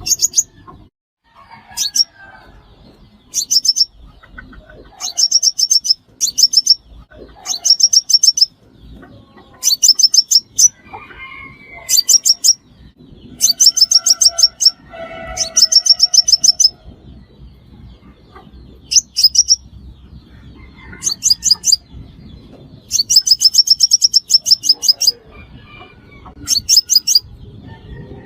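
Sunbird song: short, high, rapid trills of fast-repeated notes, one every second or two, with fainter lower chirps between them.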